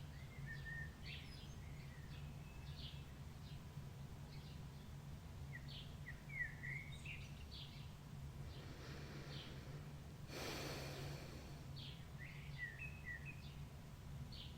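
Dawn chorus of songbirds: many short chirps and trilling phrases from several birds, over a steady low hum. A brief soft rush of noise comes about ten seconds in.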